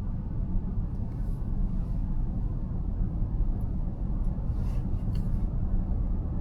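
Steady road and tyre rumble heard from inside a moving car's cabin, with faint brief hissing twice, about a second in and again near the five-second mark.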